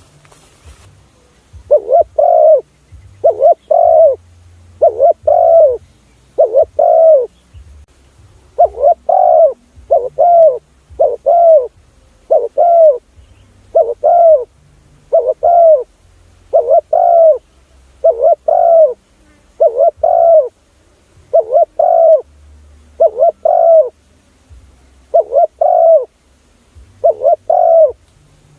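Spotted dove cooing: a loud run of double-note coos repeated about every one and a half seconds, with one longer pause partway through. It is a call recording played to lure spotted doves.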